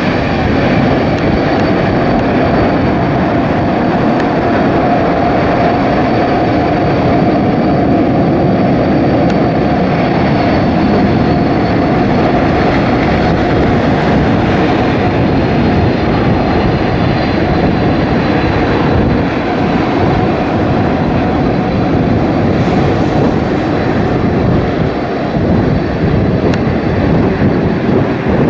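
Airbus A380 jet engines roaring loudly as the airliner lands. A faint whine in the roar slowly falls in pitch, and gusty wind buffets the microphone underneath.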